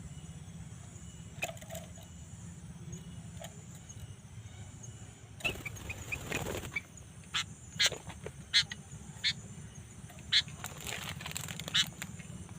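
Kutilang (sooty-headed bulbul) calling: a quick run of short chirping notes about six seconds in, then sharp single calls about once a second, over a steady low hum.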